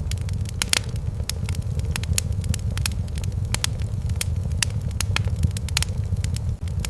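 Wood fire crackling in a fireplace: sharp irregular pops and snaps, several a second, over a steady low rumble.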